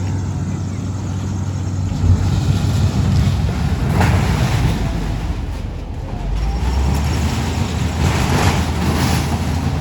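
A heavy engine running steadily, its note shifting lower about six seconds in, with two spells of rushing noise, one about four seconds in and a longer one near the end.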